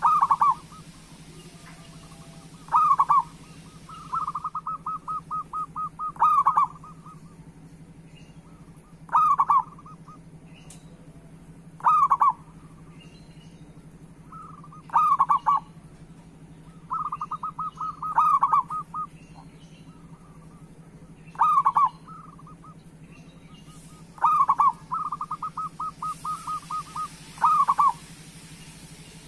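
Zebra dove (perkutut) singing: a loud cooing phrase repeated about every three seconds, three times led in by a fast run of short staccato notes. A faint steady low hum runs underneath.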